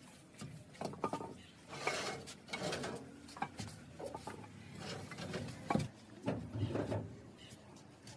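Irregular light knocks, clicks and scrapes of objects being handled, with the sharpest knock a little under six seconds in.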